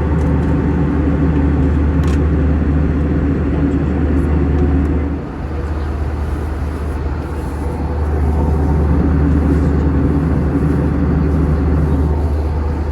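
Steady cabin drone of an Airbus A321-200 in flight: the low hum of the engines and the rush of air over the fuselage. It dips briefly about five seconds in.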